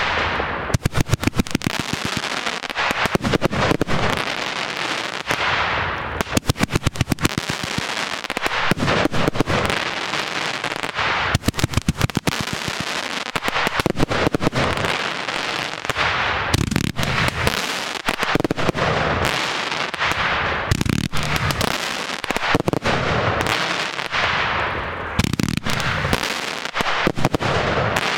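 Lesli Tundra Titan compound firework battery firing shot after shot. Each shot bursts into a dense spell of crackling that dies away, again and again with barely a pause.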